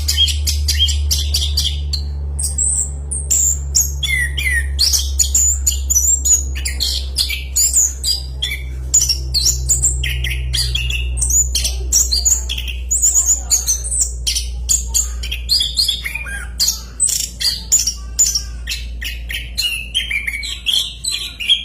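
Chestnut-capped thrush (anis kembang) singing a long, fast, unbroken run of varied whistled notes and chirps, with a steady low hum underneath.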